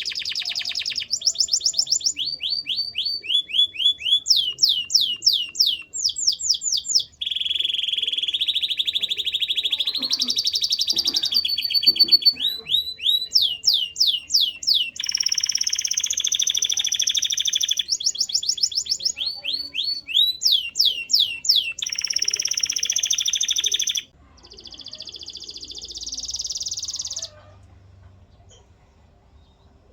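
Canary singing a long song of fast repeated sweeping notes and trills, changing phrase every second or two, with longer buzzy rolls in between. The song turns quieter about three-quarters of the way through and stops shortly after.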